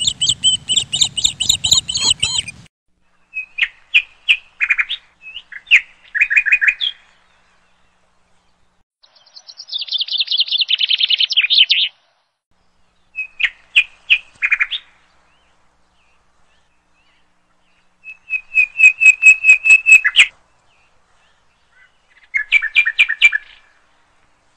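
A bird singing: about seven short phrases of rapid, high chirps and trills, each a second or two long, with quiet gaps of a second or more between them.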